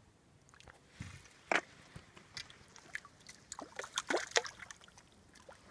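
Lake water splashing and sloshing close by in a handful of short, irregular splashes, starting about a second in and the busiest near the four-second mark.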